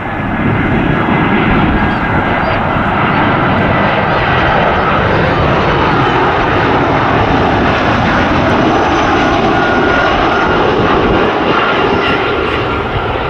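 Twin-engine jet airliner passing close by: a loud, steady engine rush that swells in about half a second in and then holds, its tone slowly shifting as the aircraft moves past.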